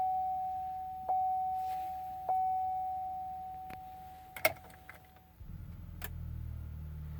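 A 2007 Chevrolet Tahoe's warning chime dings at one steady pitch about once every 1.2 s, each ding fading away, and stops after a few seconds. A sharp knock comes about four and a half seconds in, and a low steady hum starts about a second later.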